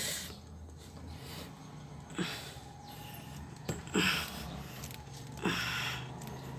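Three strokes of the hand priming pump on a Mitsubishi L300's 4D56 diesel fuel system, each a short click followed by a hiss, about a second and a half apart. The pump is still soft, a sign of air in the fuel line being worked out for a hard start.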